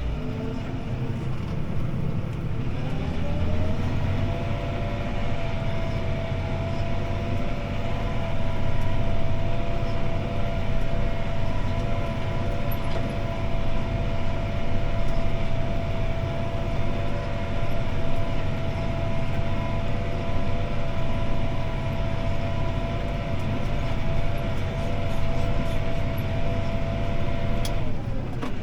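CLAAS Arion 650 tractor's six-cylinder diesel engine running under load while pulling a disc harrow, heard inside the cab over a steady low rumble. Its pitch rises about three seconds in, holds steady, then falls near the end.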